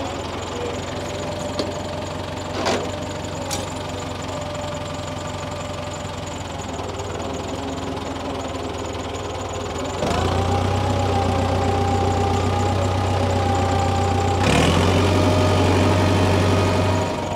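Tractor engine running steadily with a knocking beat. About ten seconds in it gets louder and a steady whine comes in over it, holding until shortly before the end.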